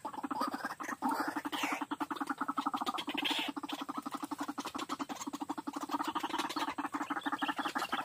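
White-breasted waterhen (ruak-ruak) calling: a long, unbroken run of rapid, low croaking pulses that starts about a second in.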